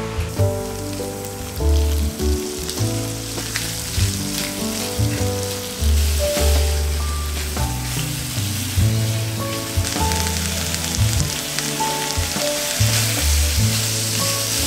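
King prawns sizzling as they fry in oil and garlic in a non-stick pan, stirred with a silicone spatula; the sizzle grows stronger in the last few seconds. Background music with a bass line plays throughout.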